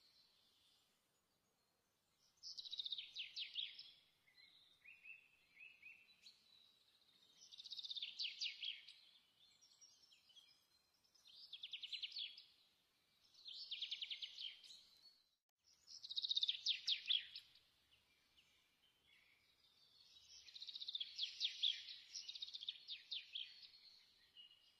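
Birdsong: about six short phrases of rapid, high-pitched trilled notes, one every few seconds, with quiet gaps between them.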